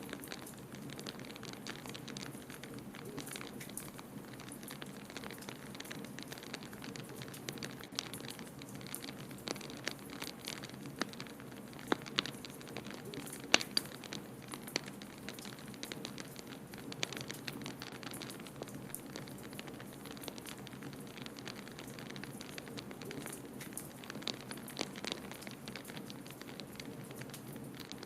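Wood fire crackling in a fireplace, with irregular sharp pops scattered throughout; the loudest pops come about twelve and thirteen and a half seconds in. A steady low rushing noise runs underneath.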